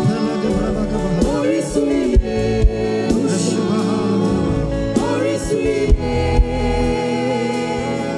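Gospel worship music: a voice singing in long, wavering lines over a sustained band accompaniment, with a few sharp drum hits.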